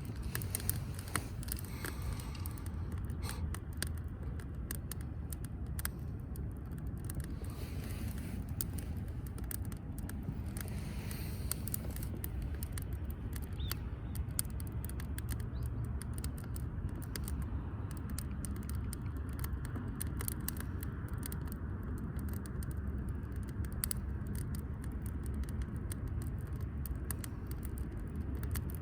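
Wood fire burning in a firewood grill: scattered small crackles and pops over a low, steady rumble.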